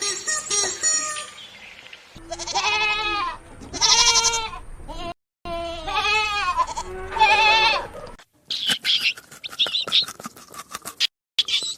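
Goats bleating: four wavering, drawn-out bleats in two short clips, each bleat about a second long. In the last few seconds a different rapid, high-pitched calling takes over.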